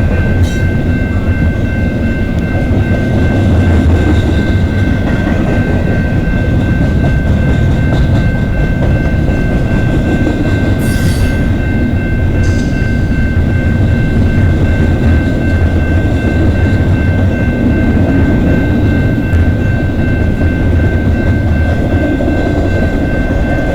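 Intermodal freight train's cars rolling past: a steady, loud rumble of wheels on rail, with a few steady high tones throughout. Two brief high-pitched sounds come about 11 and 12.5 seconds in.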